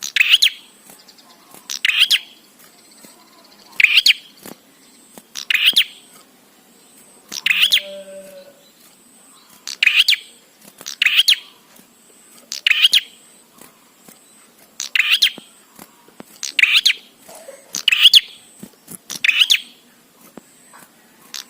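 Prenjak (prinia) calling persistently: a string of short, sharp, high chirping calls repeated at a steady pace, about one every second or so.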